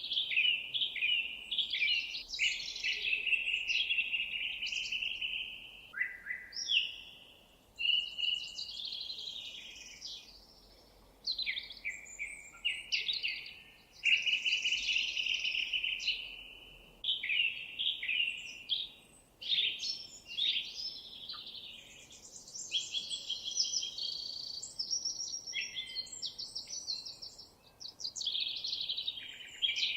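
Songbirds singing: rapid high-pitched trills and chirping phrases follow one another almost without pause, some overlapping, over a faint background hiss.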